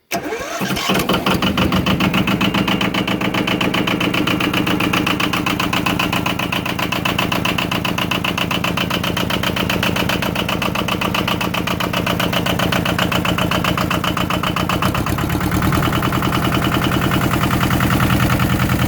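Yanmar YM2000 compact tractor's diesel engine starting, catching within about a second, then running steadily with a fast, even clatter. About fifteen seconds in its note changes and it gets slightly louder.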